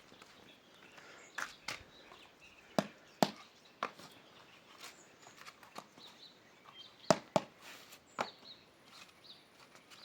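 A series of sharp knocks at irregular spacing, several in quick pairs, over faint outdoor background.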